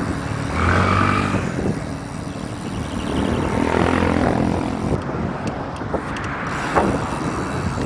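Road and wind noise while cycling, with a motor vehicle's engine hum passing close by, strongest about a second in and again around four seconds.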